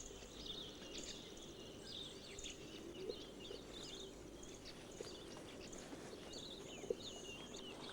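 Faint wild ambience: small birds chirping and twittering in short, wavering calls throughout, over a steady high insect-like hum.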